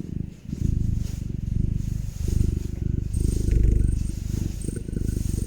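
Cat purring close to the microphone: a low, rapidly pulsing rumble in long breaths, with a short break about half a second in.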